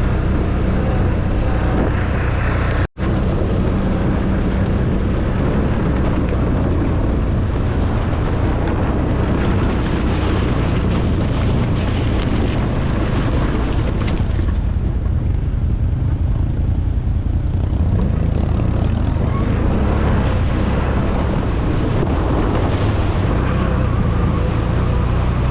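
ATV engine running steadily while riding, with a rushing noise over it. The sound drops out for an instant about three seconds in.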